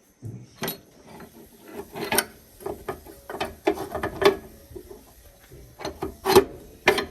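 Hand-tool work on tractor parts: irregular scraping and rubbing broken by sharp clicks and knocks. The loudest knocks come just past the middle and again about two-thirds of the way through.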